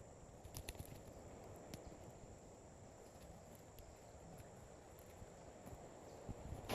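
Near silence: faint outdoor ambience with a few light ticks in the first two seconds.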